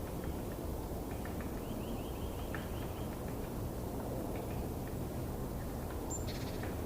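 Wild birds calling over a steady low rush of background noise. A quick series of about seven short rising notes comes around two seconds in, and a high thin note followed by a fast trill comes near the end.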